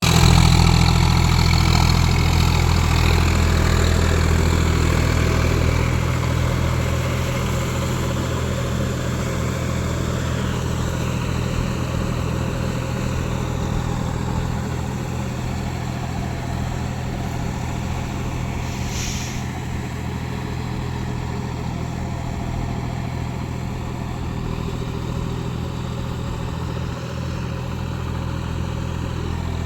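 John Deere 5050D tractor's three-cylinder diesel engine running steadily at idle, a little louder for the first few seconds before settling.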